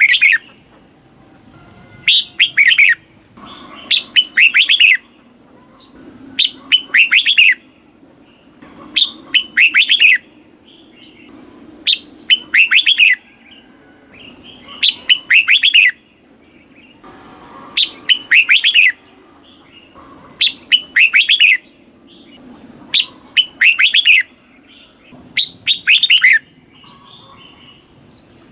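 Red-whiskered bulbul singing: short, loud phrases of several quick notes, repeated about every two to three seconds.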